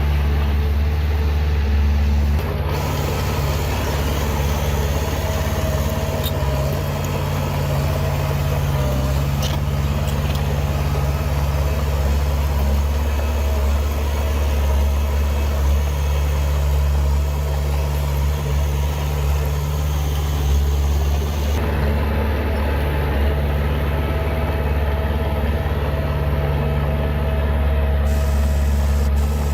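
Heavy diesel earthmoving machinery running steadily with a low, constant engine note.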